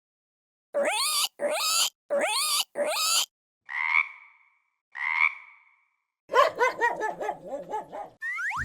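A run of animal-call sound effects, one after another: four rising calls, then two short sharp calls that fade out, then a fast string of calls. A quick rising whistle comes near the end.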